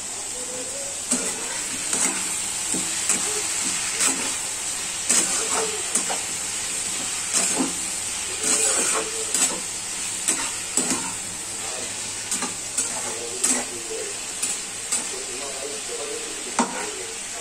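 Pumpkin pieces sizzling in oil in a frying pan while a flat metal spatula stirs them, with frequent irregular scrapes and clicks of the spatula against the pan over a steady frying hiss. The pumpkin is being fried down with turmeric and salt.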